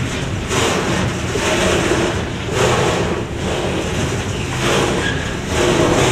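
Container freight train passing over the level crossing: a steady rumble of wheels on rail, with a clattering burst about once a second as the wagons go by.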